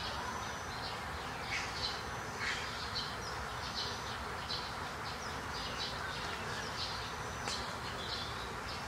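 Small birds chirping in the morning: scattered short high chirps and a few brief whistles over a faint steady background.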